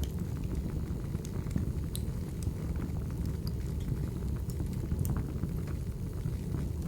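Wood fire burning in a fireplace: a steady low rumble with scattered sharp crackles and pops of the burning logs.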